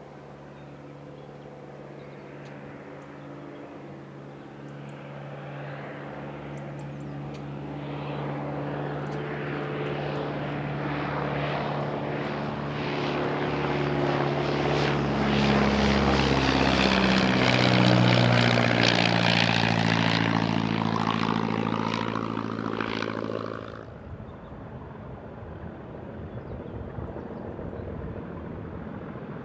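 Diesel locomotive engine working hard as it approaches and passes, a steady droning note that swells and drops in pitch as it goes by. It cuts off suddenly near the end.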